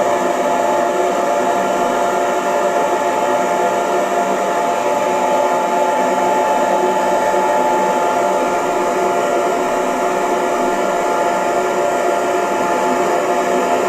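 Electric hair dryer running steadily: an even blowing noise with a constant motor whine.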